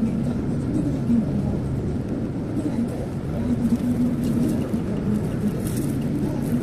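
Steady engine and road noise inside a moving car, with a low, wavering drone.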